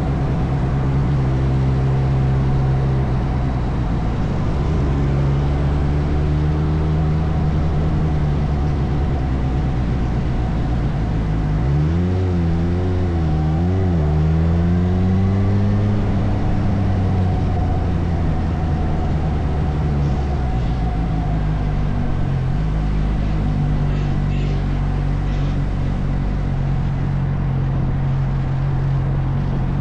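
Suzuki motorcycle engine running under way, mostly at a steady pitch, with a stretch of quick revving up and down about twelve seconds in, followed by a rise in pitch as it accelerates.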